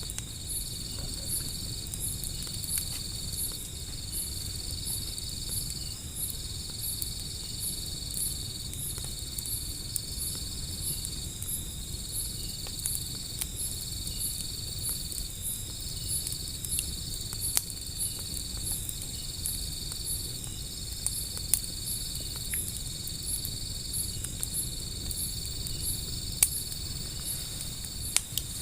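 Insects chirping steadily: one continuous high trill broken by short gaps, with a higher chirp pulsing evenly above it. A wood fire crackles underneath, with a few sharp pops that stand out, mostly in the second half.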